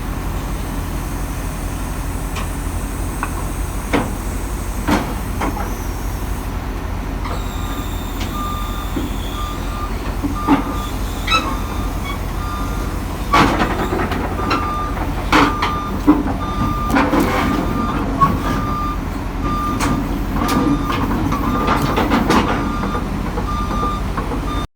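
Heavy diesel machinery running with a steady low rumble. A backup/travel alarm starts beeping at a regular rate about seven seconds in, and sharp metal clanks come now and then.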